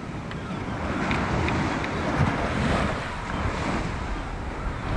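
Sea waves breaking on the beach, with wind on the microphone; the surf swells about a second in and eases slightly after about three seconds.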